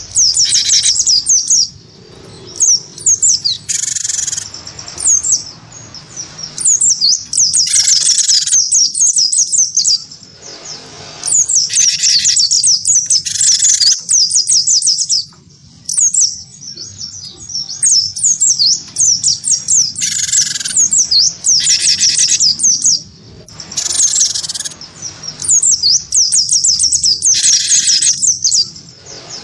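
Cage birds, a cinereous tit (gelatik batu) and a white-eye (pleci), singing hard against each other: a dense stream of quick, high, twittering notes, cut every few seconds by harsh buzzy calls about a second long.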